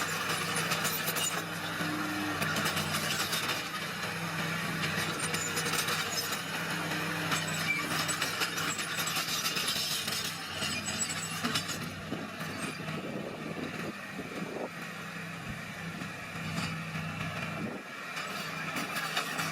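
Small crawler bulldozer's diesel engine running steadily under load, with a continuous clattering and scraping of tracks and pushed crushed stone.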